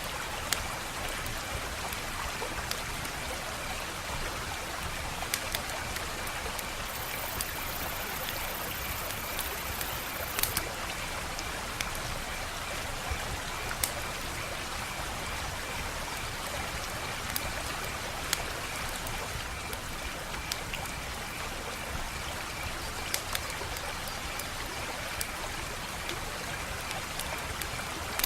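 Wood fire crackling steadily, with sharp irregular pops and snaps over a constant hiss.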